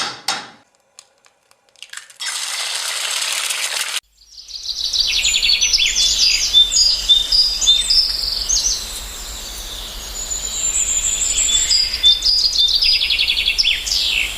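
Birds chirping and twittering over a steady background hiss, starting about four seconds in, after a short burst of plain hiss.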